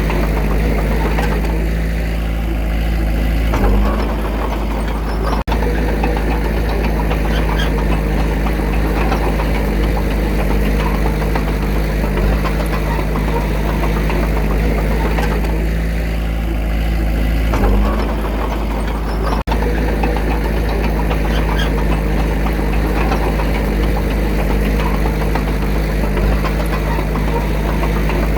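Diesel engine of a heavy earthmoving machine running steadily. Twice it briefly changes note and ends with a knock.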